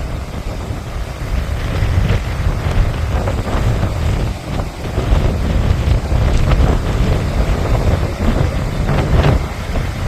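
Wind buffeting the microphone at the seashore: a heavy, uneven low rumble that swells and dips throughout.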